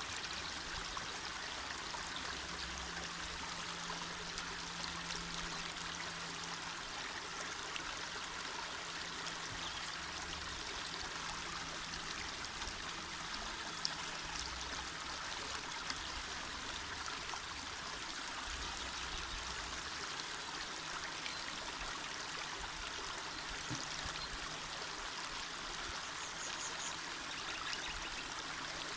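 A small mountain river running over stones, a steady rushing and babbling of water.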